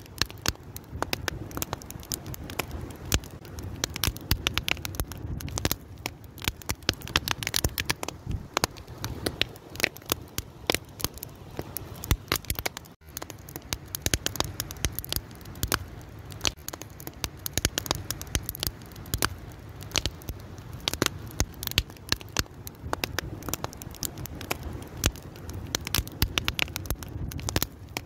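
Wood fire crackling, with dense irregular pops and snaps over a steady low rumble of burning; the sound briefly cuts out for a moment about halfway through.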